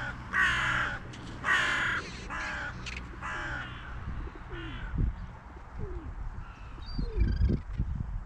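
Crows cawing: about four loud, harsh caws in the first four seconds, then fainter calls, with low rumbles near the end.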